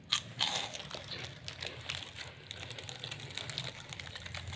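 Crunchy 3D snack being bitten and chewed: a run of irregular, crisp crackles.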